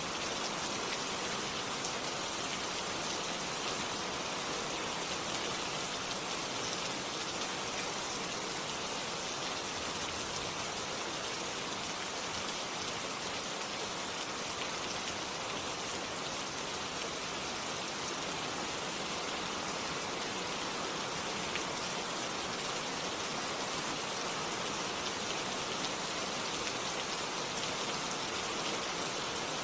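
Steady, dense rain falling, an even hiss of many drops with fine pattering and no thunder.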